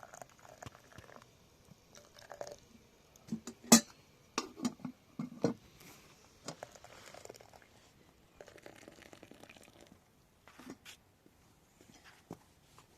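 Irregular close-up clicks, knocks and rustling, with one sharp click about four seconds in and a few quick knocks just after.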